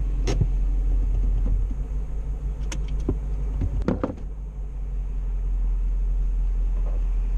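Car engine idling, a steady low rumble heard from inside the cabin, with a few short clicks and knocks.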